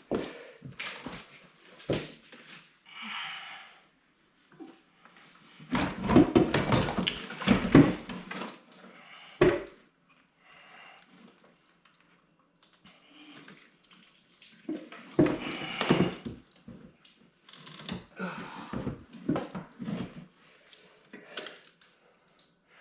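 Irregular knocks, clinks and clatter of tools and metal parts being handled during snowmobile teardown work, with louder bursts of banging about six seconds in and again about fifteen seconds in.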